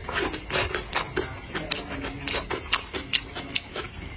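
Close-miked chewing of vegetables: an irregular run of sharp crunchy clicks, several a second.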